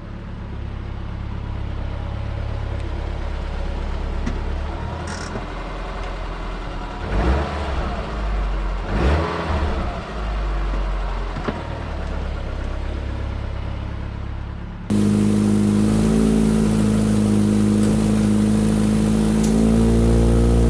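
Car engine running steadily through an exhaust whose rusted resonator pipe has been patched. About fifteen seconds in it cuts to a louder, steady engine drone with a hiss over it.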